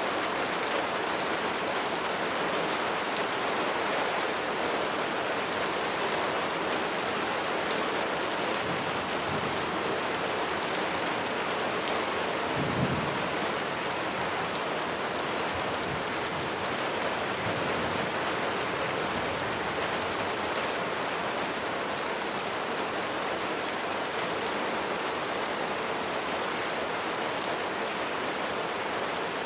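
Steady rain falling, an even hiss of drops on a surface with fine scattered patters. A brief low rumble about halfway through.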